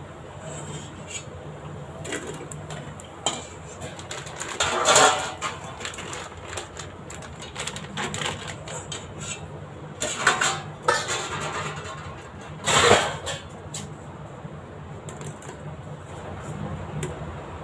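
Metal utensil clinking and scraping against a frying pan in short bursts, over a steady low hum.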